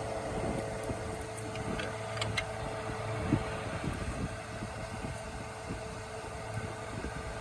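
Steady mechanical hum with a constant tone and a low rumble. A few light metallic clicks come about two seconds in, and a single knock a little after three seconds.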